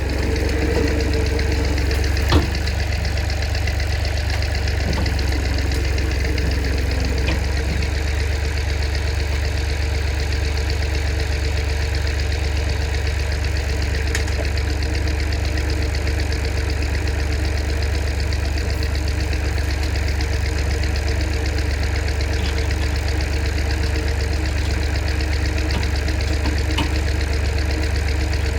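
Small tractor's engine running steadily, with one sharp knock about two seconds in.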